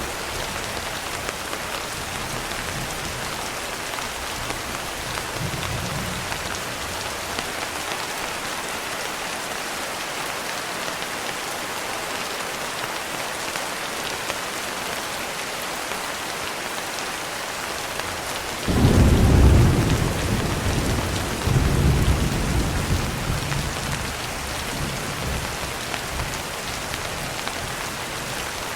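Steady heavy rain. About two-thirds of the way through, a roll of thunder breaks in suddenly, swells a second time a few seconds later, then fades back under the rain.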